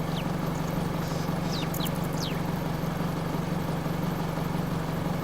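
A vehicle engine idling with a steady low hum. A few brief, high, falling chirps sound over it, about one and two seconds in.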